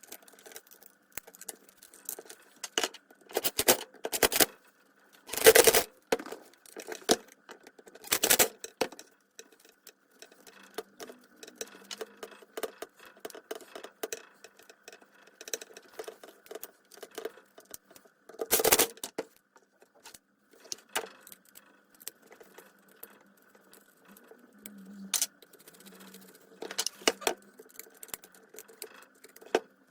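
Irregular clicks, clinks and knocks of metal tools and circular-saw parts being handled during work on the saw, with several louder knocks, the loudest about 5 and 18 seconds in.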